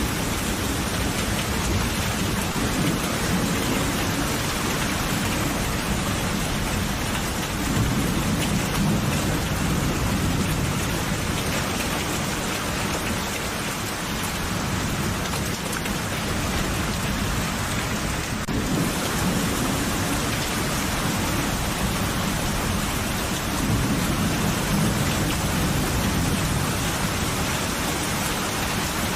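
Steady heavy rain hissing without a break, with low rolling thunder rumbles that swell and fade several times.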